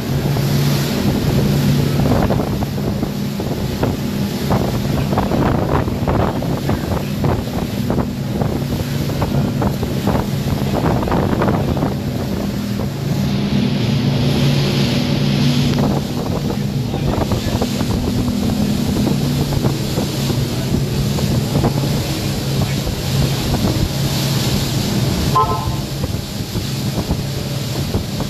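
A steady engine drone with wind buffeting the microphone.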